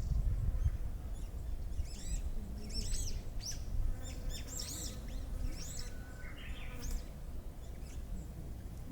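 Small songbirds chirping: a run of short, high, arched notes that thickens in the middle and fades near the end, over a steady low rumble.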